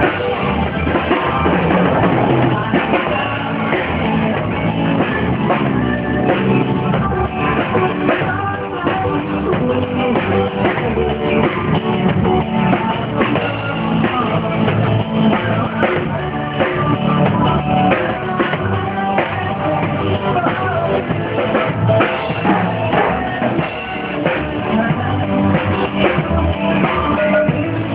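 Live rock band with drum kit and guitar, and some singing, played loud through a car audio system.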